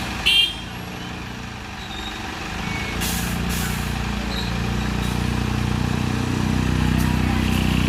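Heavy diesel tipper truck engine running, growing louder and revving up from about three seconds in. There is a short, sharp high-pitched squeal near the start and two brief hisses of air about three seconds in.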